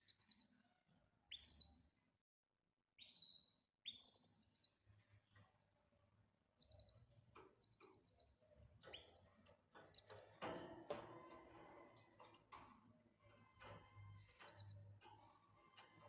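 Canary giving short chirping calls, a few well spaced in the first five seconds, then a quicker run of chirps, with faint ticks and rustling in between.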